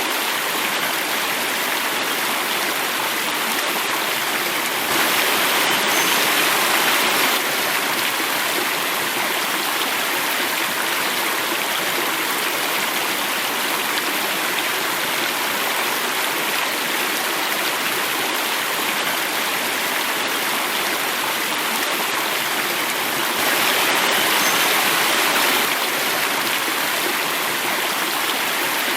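Running water flowing and falling over a small waterfall: a steady rushing and splashing, briefly louder twice, about five seconds in and again near the end.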